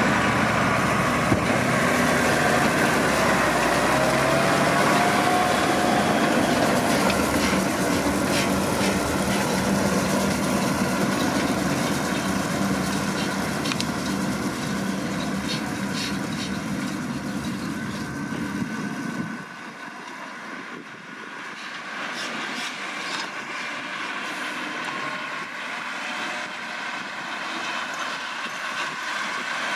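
Massey Ferguson 7620 tractor engine running steadily under load while pulling a McHale V660 round baler, with light ticking from the machinery. About two-thirds of the way in, the deep engine rumble drops away suddenly and the sound becomes quieter and thinner.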